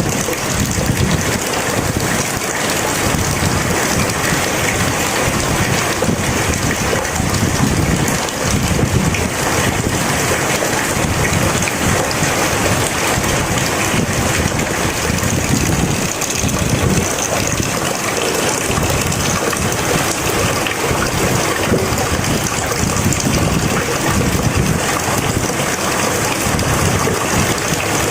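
Heavy rain falling steadily, an even hiss with a low, uneven rumble underneath.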